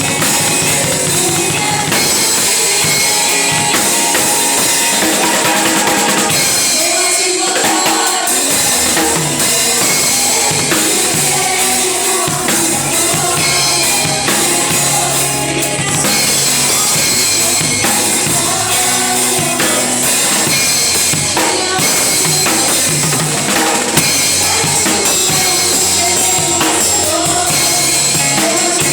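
Live church worship band music led by a drum kit, with bass drum and snare keeping a steady beat.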